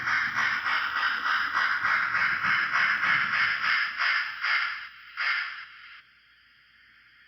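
HO-scale Bachman steam switcher's DCC sound decoder playing steam chuffs through the locomotive's small speaker as it runs: a quick, even chuff at about four a second that slows and stops about five seconds in, leaving a faint steady hiss.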